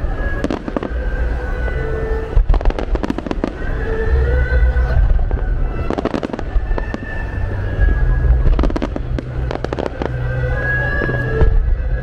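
Aerial fireworks bursting: clusters of sharp bangs and crackles every two to three seconds over a continuous low rumble.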